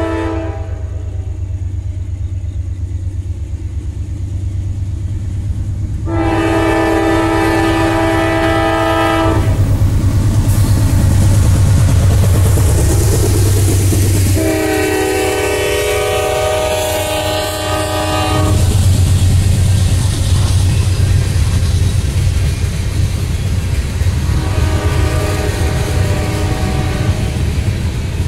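Freight train rolling past with a steady heavy rumble and wheel clatter on the rails, while the locomotive horn sounds three long blasts several seconds apart, the last one fainter, after the end of an earlier blast just at the start.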